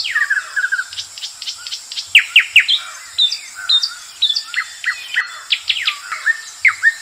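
Birds chirping: a rapid run of short whistled calls, many of them quick downward sweeps, several a second.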